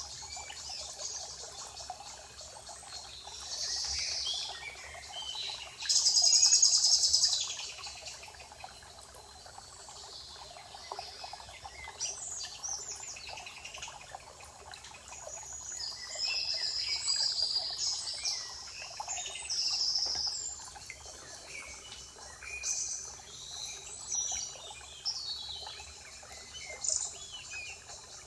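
Several songbirds singing and chirping in a spring forest, with short trills and calls overlapping throughout and a loud burst of song about six seconds in. A faint steady hiss of forest ambience lies underneath.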